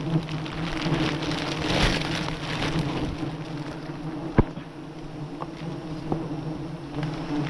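A swarm of wild honeybees buzzing steadily around their disturbed nests, a continuous low hum. Scattered light clicks and rustles, and one sharp knock about four seconds in.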